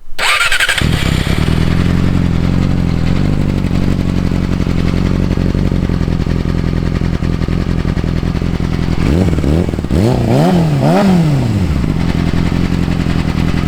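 Yamaha R6 inline-four motorcycle engine, running through a Graves exhaust with the catalytic converter deleted, idling steadily. About nine seconds in it is blipped about four times in quick succession, rising and falling in pitch each time, then settles back to idle.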